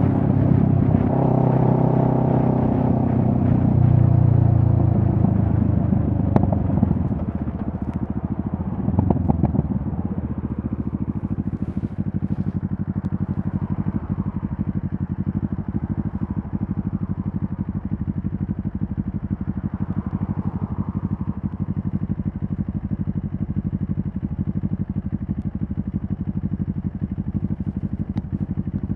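CFMoto 650NK motorcycle's parallel-twin engine running. The revs vary and the engine is louder for about the first ten seconds, then it settles to a steady idle.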